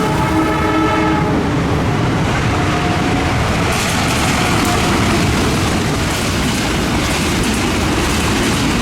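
Locomotive horn sounding briefly, ending about a second in, as a passenger train runs past. After it comes a loud, steady rumble of wheels on rail, with a brighter hiss from about halfway.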